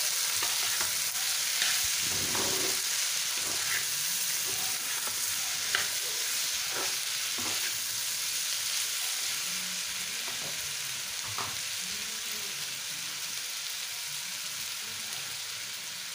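Diced potatoes and onion sizzling steadily in oil in a frying pan, with a metal spatula scraping and knocking against the pan as they are stirred. The strokes come most often in the first half.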